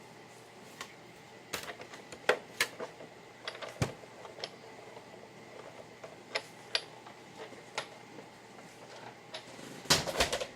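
Scattered light taps and clicks of cardstock pieces and crafting tools being picked up and set down on a work table, with one heavier knock a little under four seconds in and a quick flurry of handling noises near the end.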